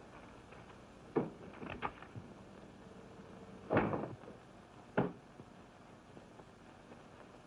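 Five sharp knocks and thumps, the loudest a little before the middle, over a faint hiss of old film sound.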